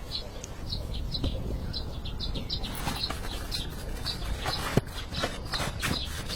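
A small bird chirping repeatedly in short high notes. About three seconds in, irregular sharp taps and clicks join it, over a low steady rumble.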